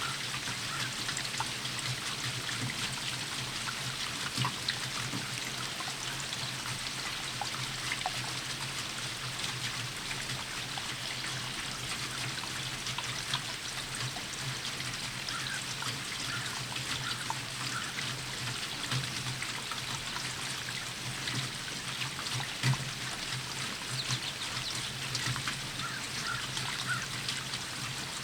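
Steady rainfall: an even hiss of rain with scattered individual drops, a few of them landing louder. A steady low hum runs underneath.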